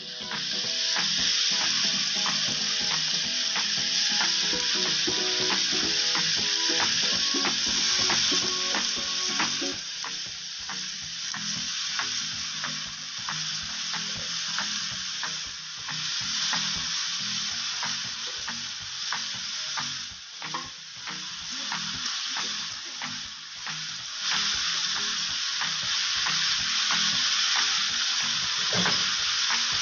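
Julienned bottle gourd (upo) and pork frying in oil in a pan: a steady sizzling hiss with scattered crackling pops. It eases slightly for a while in the middle, then returns.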